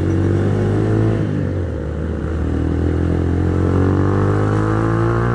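Single-cylinder 150 cc SOHC four-stroke engine of a Minerva R150 VX motorcycle pulling under acceleration, its note rising steadily in pitch.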